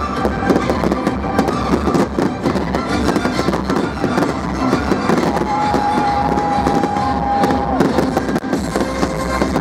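Fireworks bursting and crackling in quick, irregular succession, with music playing along, including a long held note about halfway through.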